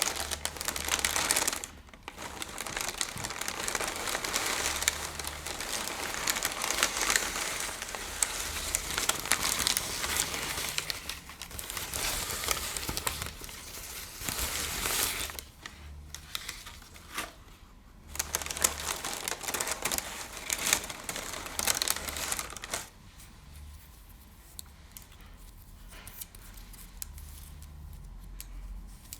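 Crinkly material crumpled and rustled close to the microphone, a dense crackling with brief pauses, much quieter over the last few seconds.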